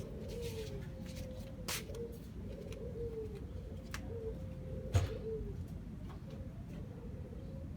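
A dove cooing over and over, short low notes, some falling in pitch. A few sharp clicks, with a louder knock about five seconds in.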